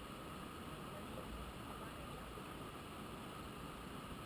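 Steady rushing noise with low rumbles, like wind buffeting the microphone.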